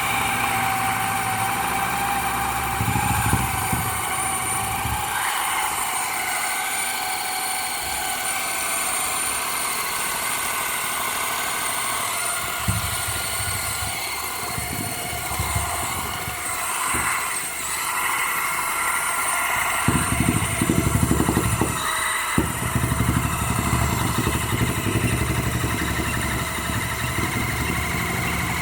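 A toy's small electric motor running fast on high voltage, giving a steady high whine made of several pitches. A low rattle comes and goes.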